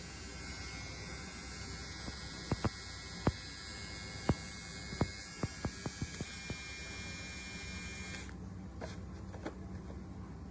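Small cordless electric pet grooming trimmer running with a steady high whine, with a run of sharp clicks partway through; it switches off about eight seconds in.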